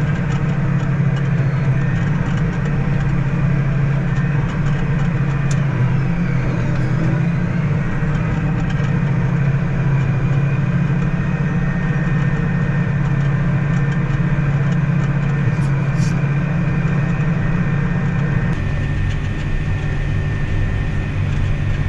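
Farm harvest machine engine running steadily with a low hum. A little of the higher part of the sound drops away near the end.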